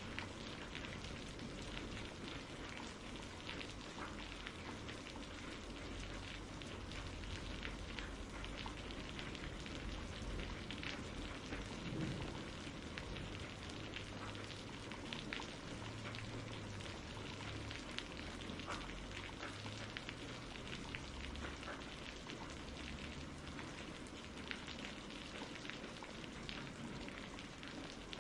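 Steady rain falling and pattering on a surface, with a faint low rumble underneath.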